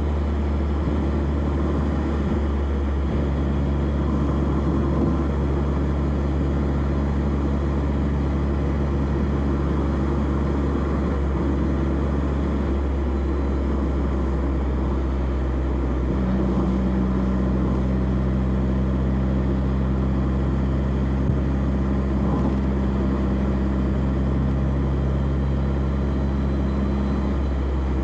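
Exhaust of a 1991 BMW E30 316i's four-cylinder engine, heard from the rear of the car while driving at steady revs, over tyre and road noise. The engine note steps to a different pitch about three seconds in and again about midway.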